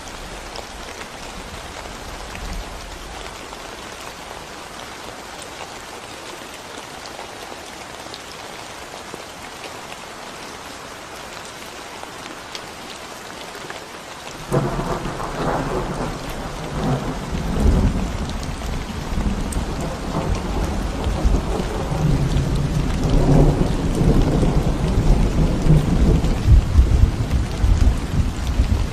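Steady rain falling on a concrete road. About halfway through, a low rumble of thunder comes in suddenly and keeps rolling, growing louder.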